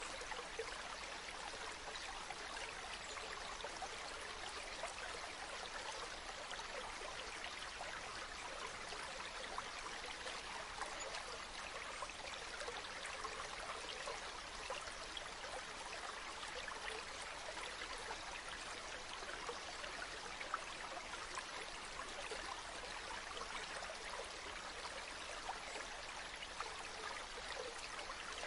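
A small stream babbling steadily, with a few faint sharp clicks here and there.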